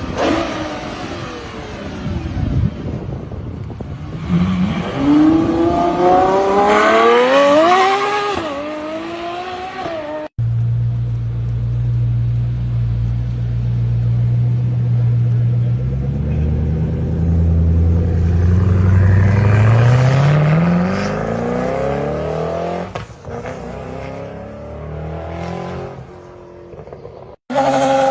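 Supercar engines revving in two separate clips. In the first, the engine note rises and falls in repeated revs. After a sudden cut about ten seconds in, a second car runs with a deep steady drone that climbs in pitch as it accelerates and then eases off.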